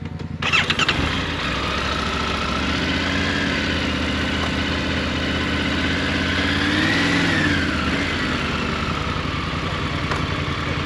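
Motorcycle engine running, getting suddenly louder about half a second in. The engine pitch climbs and falls back around seven seconds in.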